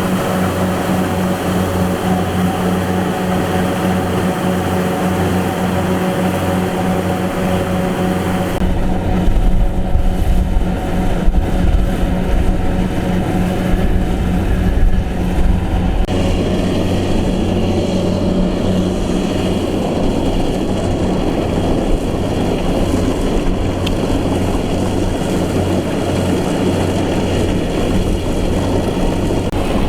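Farm machine engine running steadily under load, its sound changing abruptly about 9 seconds in and again about 16 seconds in.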